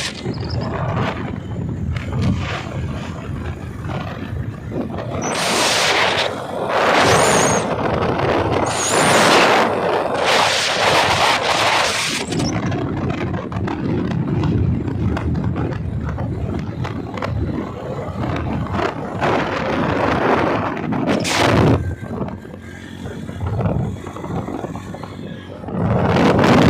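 Wind buffeting the microphone in repeated gusts over the low, steady rumble of a moving bike.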